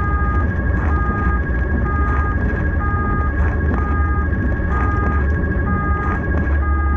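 Emergency siren on a rescue vehicle, alternating in a repeating two-tone pattern about once a second, over a heavy low rumble of the vehicle on the move.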